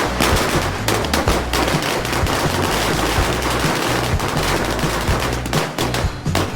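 A string of tiny wala garland firecrackers going off in a rapid, unbroken chain of sharp pops, like machine-gun fire.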